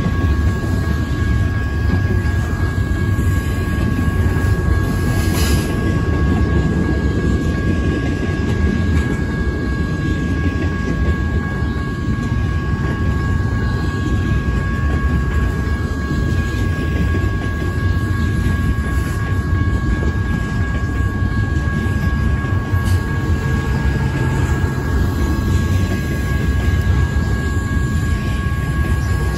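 Double-stack intermodal freight train cars rolling past at speed, a steady loud rumble of steel wheels on rail. Two faint steady high-pitched tones sit over the rumble.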